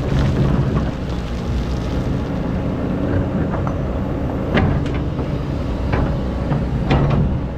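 Excavator diesel engine running steadily with a deep drone, with several sharp knocks and clanks in the second half.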